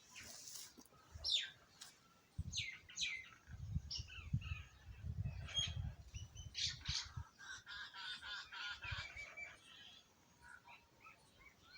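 Small birds chirping in many quick, overlapping calls, squabbling over food. There is a low rumbling near the start of the middle stretch that lasts a few seconds.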